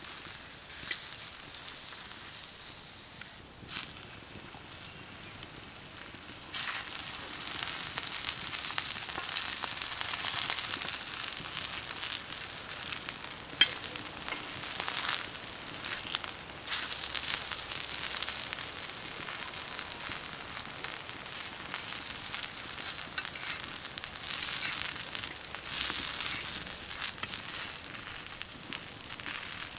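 Potato-stuffed wheat-flour flatbreads shallow-frying in oil on a tawa: steady sizzling and crackling that grows louder about seven seconds in, with a few sharp clicks.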